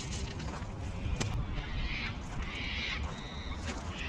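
Wind rumbling on the microphone, with three short rasping bird calls about two seconds in, just under three seconds in, and near the end.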